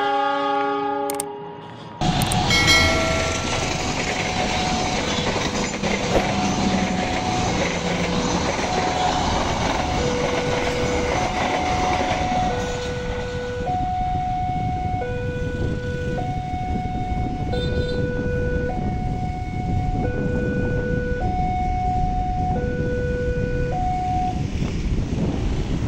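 Diesel-hauled passenger train passing a level crossing: a steady rumble of the locomotive and coaches going by, starting suddenly about two seconds in. Over it, the crossing's electronic alarm sounds two notes alternating low and high, each held about a second.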